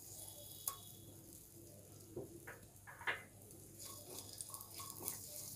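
Cashews and raisins frying in a little ghee in a non-stick kadai: a faint sizzle with scattered small pops and ticks. A silicone spatula starts stirring them toward the end, adding soft scraping and more crackle.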